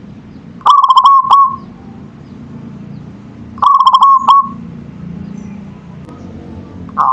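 Zebra dove (perkutut) singing: two quick phrases of short, rapid cooing notes about three seconds apart, each ending on a longer held note, with a third phrase starting at the very end. A steady low hum runs underneath.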